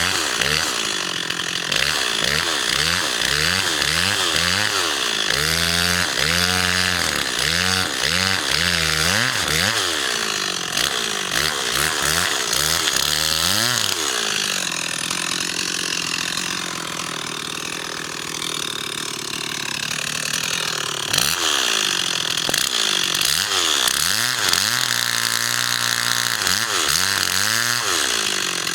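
Chainsaw revved up and down over and over, its pitch rising and falling about once a second, with a stretch of steadier running in the middle.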